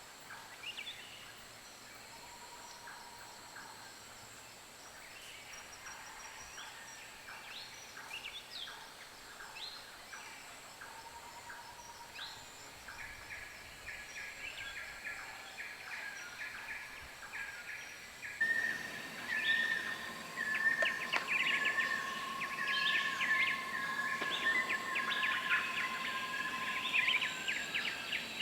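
Wild forest birds calling, with many short chirps and whistles over a steady high insect drone. About two-thirds of the way through the sound changes abruptly to a louder, denser chorus of chirps with long held notes.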